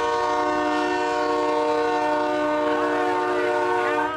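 Semi truck's multi-chime air horn blowing one long steady chord that cuts off suddenly near the end.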